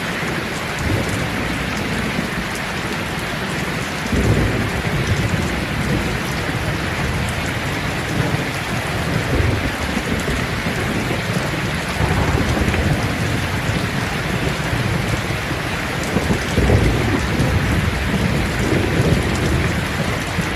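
Steady rain falling on leaves, a dense even patter, with low rumbling swells underneath about four seconds in and again near the end.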